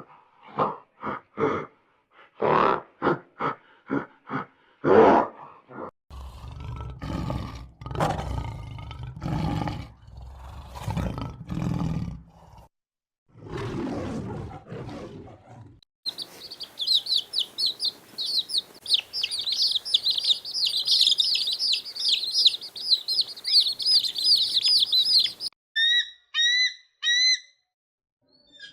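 A run of animal calls. First come short repeated calls, then longer, deeper calls. About sixteen seconds in, a dense chorus of high bird chirps begins, and near the end a bird gives short repeated notes.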